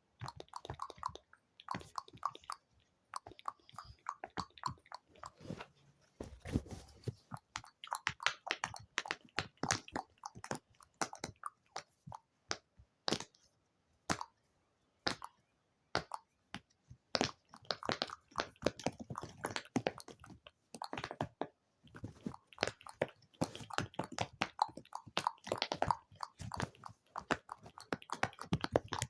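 ASMR mouth sounds close to the microphone: quick, irregular wet clicks and smacks in runs, broken by short pauses.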